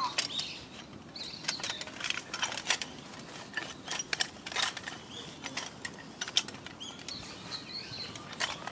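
Wood fire in a small fire-pit grill crackling and popping, with irregular sharp snaps several times a second.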